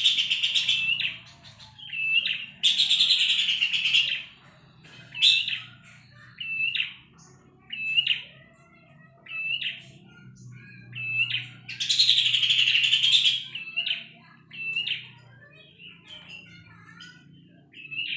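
Pelanduk semak babbler calling: short, sharp hooked notes repeated about once a second, broken three times by longer loud, harsh chattering bursts.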